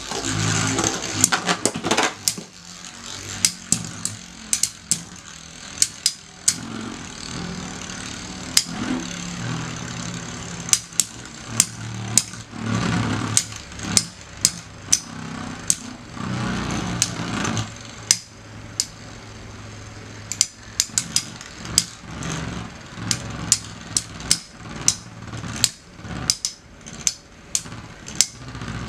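Two metal Beyblades, Lightning L-Drago and Basalt Horogium, spinning in a stadium with a steady whir, clashing again and again in sharp, irregular clicks and clacks, sometimes in quick runs.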